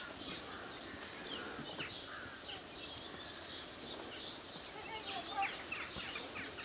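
Birds chirping: many short, quick calls scattered through, over a faint steady outdoor background.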